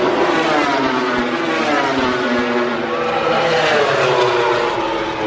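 Racing motorcycle engines at high revs, loud and continuous. Their pitch slides down, climbs again about three to four seconds in, then falls once more.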